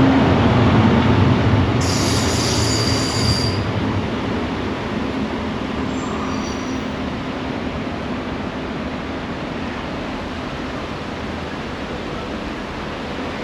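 Train passing on the seafront railway line, loudest at the start and fading steadily away, with a brief high wheel squeal about two seconds in.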